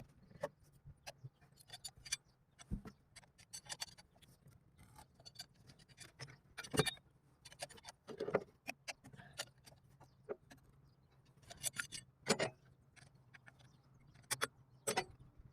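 Metal hand tools and engine parts clinking and knocking in irregular taps and clatters, with a few louder knocks, over a faint low steady hum.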